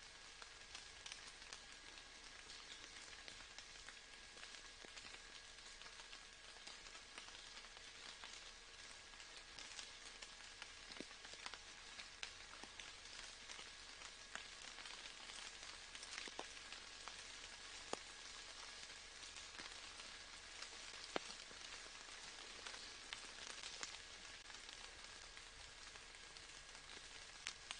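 Faint, steady rain falling, with scattered sharper drops ticking through it.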